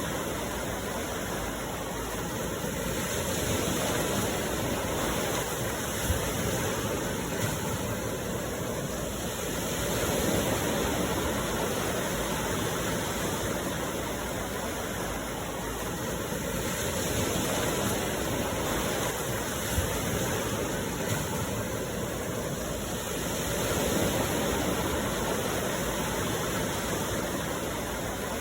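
Sea surf washing onto the shore, a steady rush that swells every six or seven seconds as waves come in.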